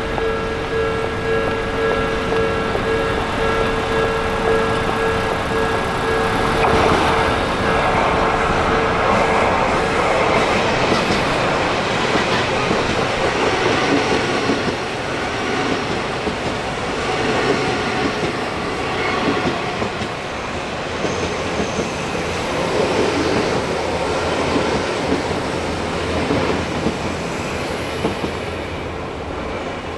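Odakyu electric commuter trains passing close by, the wheels clattering over the rail joints, the sound swelling from about six seconds in and easing off near the end. The silver, blue-banded train is an Odakyu 3000 series.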